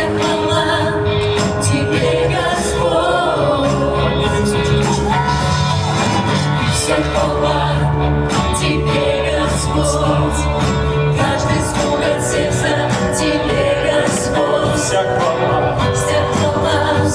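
A Christian worship song: a singing voice over a steady band accompaniment of bass and drums.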